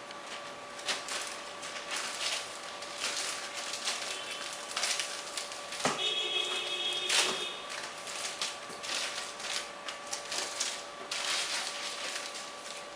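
Crinkling, rustling and clicking of packaging as an EPO foam wing half of an RC glider is handled and unpacked from its box, with a brief squeak about six seconds in.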